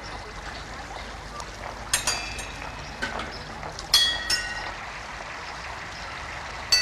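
Water clock working: water pouring and trickling through it, with a handful of sharp metallic clinks that ring on briefly, the loudest about four seconds in.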